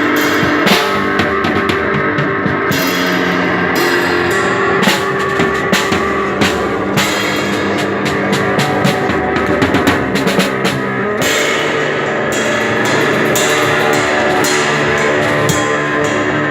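Live rock instrumental: distorted electric guitar and a drum kit playing together, with a busy run of drum and cymbal hits in the middle before the guitar rings out over sparser drumming.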